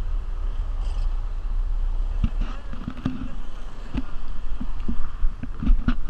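Hurricane-force wind rumbling on the microphone, with irregular knocks and rattles from about two seconds in.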